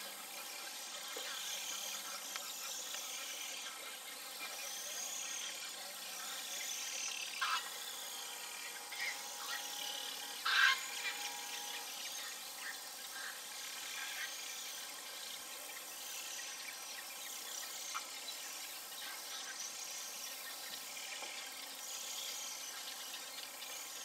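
Birds chirping: short, high calls repeating every second or two over a steady hiss, with a louder call about seven and a half seconds in and another, the loudest, about ten and a half seconds in.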